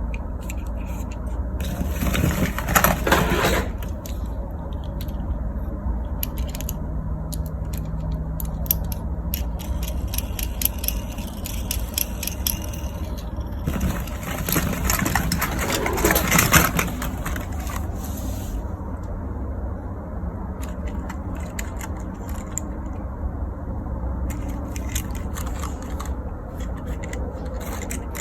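Plastic toy cars being handled, scraping and clattering, with louder bursts of rattling about two seconds in and again around fifteen seconds in, over a steady low hum.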